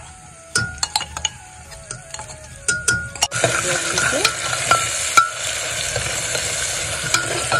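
Sharp clinks and knocks of a spoon and ladle against a steel cup and an aluminium pot. From about three seconds in comes a steady, loud sizzle as ground masala paste (garlic, ginger, cumin and red chilli) fries with onions and is stirred with a metal ladle. The sizzle cuts off suddenly at the end.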